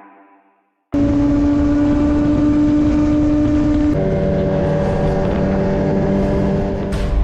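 Sportbike engine running at steady revs, with wind and road noise. It cuts in suddenly about a second in, and its pitch steps down abruptly about three seconds later.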